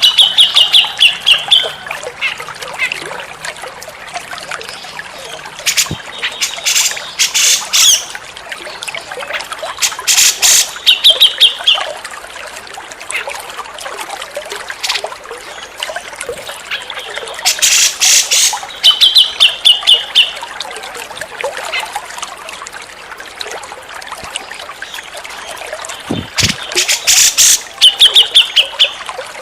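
Grey-cheeked bulbul (cucak jenggot) calling: bursts of rapid harsh chattering, each ending in a short trill, repeating every seven to nine seconds over steadily trickling water.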